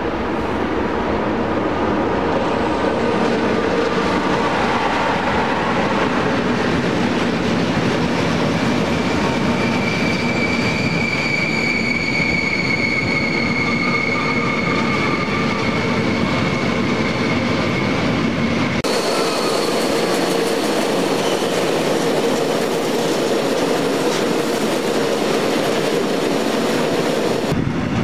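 Freight train of tank wagons rolling past at close range, with a steady rumble and clatter of wheels on rail. A high wheel squeal sets in about ten seconds in and holds for several seconds. About two-thirds through, the deep rumble drops away abruptly while the rolling clatter goes on.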